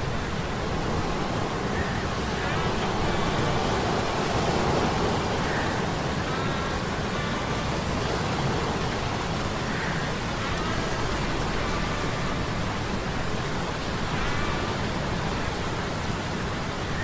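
Steady rushing noise of sea storm surf laid over a low hum of metal gears, with faint short high squeaks recurring every few seconds.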